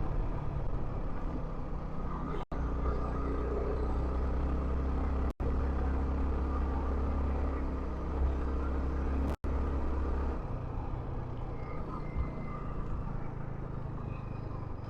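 Yamaha R15 V3 single-cylinder motorcycle being ridden, a steady engine drone under road and wind noise, easing off about ten seconds in. The audio drops out completely three times for an instant.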